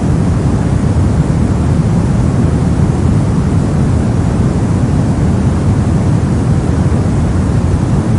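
Steady soft noise of the sleep-and-study kind: an even, unbroken rush, deeper than a bright hiss, with no changes or events.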